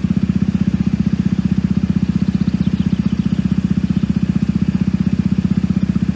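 Level crossing audible warning alarm sounding continuously: a low tone pulsing rapidly and evenly.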